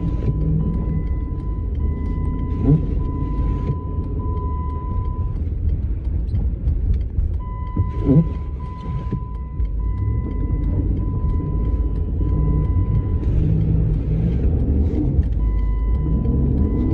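Cabin sound of a 2009 Jeep Commander's 5.7 Hemi V8 driving through snow: a steady low engine and road rumble. A thin high tone runs on and off over it, and a few short rising squeaks come through.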